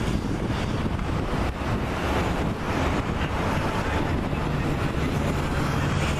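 Boeing 737 MAX 8's CFM LEAP-1B jet engines running with a steady rush and low rumble, mixed with wind buffeting the microphone; a faint low hum comes in about halfway through.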